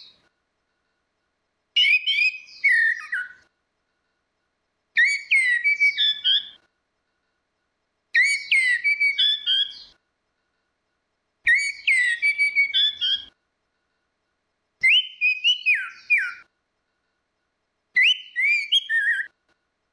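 Orange-headed thrush singing six separate phrases of quick, varied whistled notes that sweep up and down. Each phrase lasts about one and a half to two seconds, with dead silence of about a second and a half between phrases.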